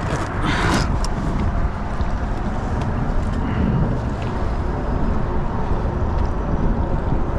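Wind rumbling on the microphone, with waves slapping and sloshing against the kayak's hull. A few brief splashy crackles come near the start.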